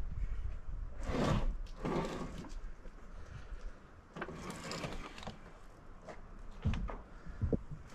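Wooden slabs being slid and handled, a few scraping slides followed by two short knocks near the end.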